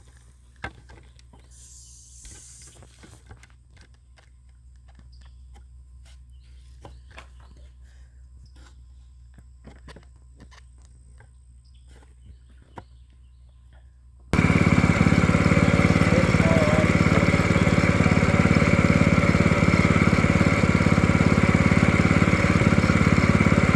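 Faint low hum and scattered light clicks, then about fourteen seconds in a portable sawmill's small engine comes in suddenly loud and runs steadily.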